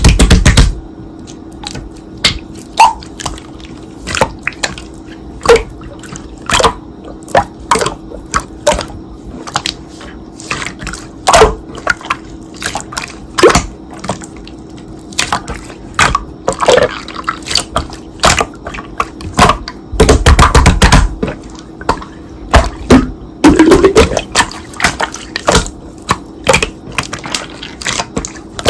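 Slime being squished and pressed by hand: irregular wet clicks and pops, with a longer, louder squelching stretch about twenty seconds in.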